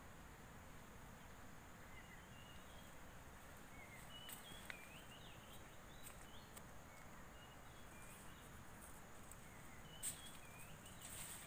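Faint outdoor ambience with scattered short bird chirps, and a sharp click about ten seconds in.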